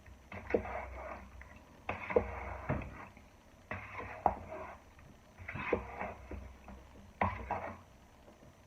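Cubed raw chicken breast being tossed and mixed with cornstarch in a bowl, in five separate bouts of wet, clicky stirring about a second and a half apart.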